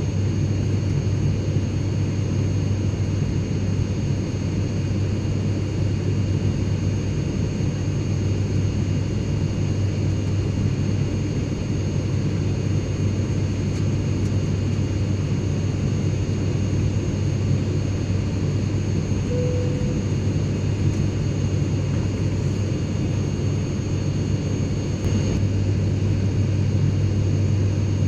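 Airplane cabin noise in flight: a steady, even low rumble with faint constant high-pitched whines above it. A brief faint tone sounds about two-thirds of the way through.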